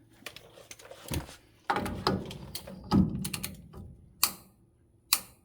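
Ratcheting torque wrench clicking in irregular strokes with several sharp louder clicks, as the rear-axle spindle nut is drawn up to 60 foot-pounds to seat and preload the wheel bearings.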